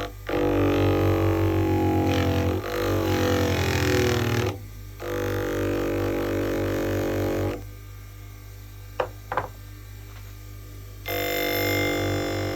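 A power tool run in three bursts of a few seconds each, with a droning pitch that starts and stops abruptly; two short clicks come in the pause between the second and third bursts.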